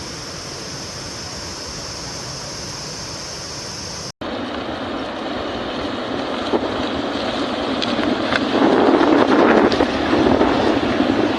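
Flash-flood water rushing, a steady hiss. After a sudden cut about four seconds in, the rush is louder and rougher, with wind buffeting the microphone and scattered knocks, growing louder near the end.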